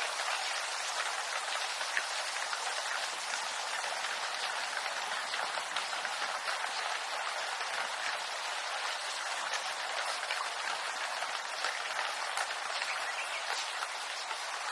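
Steady rain falling on a bamboo grove: an even patter of drops with many small, distinct drips scattered through it.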